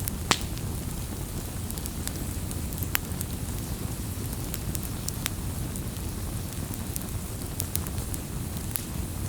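Campfire crackling: scattered sharp pops and snaps over a steady low rush of burning, with one loud pop right at the start.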